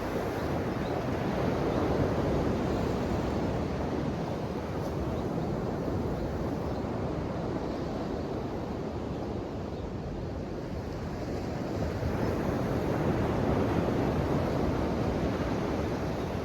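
Ocean waves washing on the shore, a steady rushing surf that swells twice, about two seconds in and again later.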